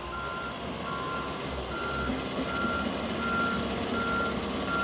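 Heavy excavator's backup alarm beeping steadily, a little more than one beep a second, over its diesel engine running.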